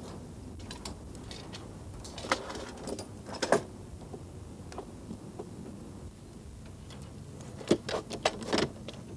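A few sharp knocks and clatters in two short clusters, one about two seconds in and one near the end, over a low steady background rumble.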